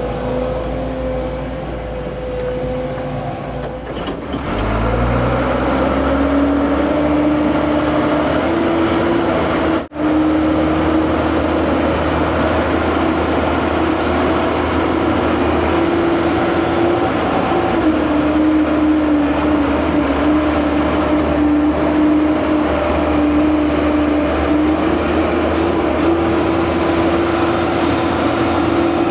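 Heavy earthmoving machine's diesel engine revving up about four seconds in, then running hard and steady under load, with a brief break near ten seconds.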